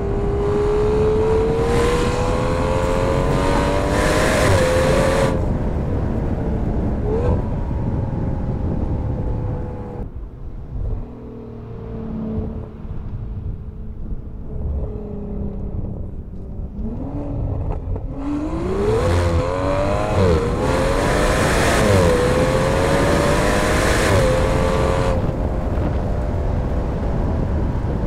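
Aston Martin V12 Speedster's twin-turbo V12 running through a QuickSilver sports exhaust, heard on the move. It pulls up through the revs with a quick upshift about four seconds in, then cruises. It goes quieter off the throttle for several seconds, then accelerates hard again through a few quick gear changes before easing back.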